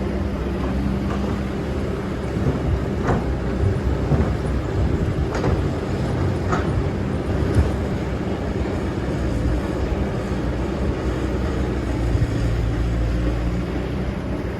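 Excavator's diesel engine running steadily while digging sand, with a few short knocks from the machine scattered through it.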